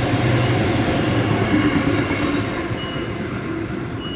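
Sydney Trains Tangara electric train passing through the station, a steady rumble of wheels and motors that slowly fades toward the end.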